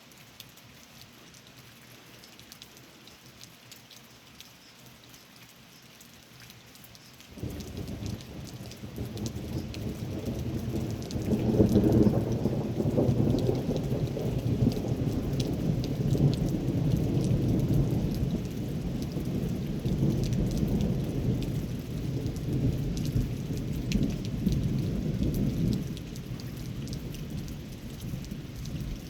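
Steady rain falling for about seven seconds, then a long roll of thunder breaks in suddenly, swells to its loudest a few seconds later and keeps rumbling for well over ten seconds before easing off near the end, with the rain going on throughout.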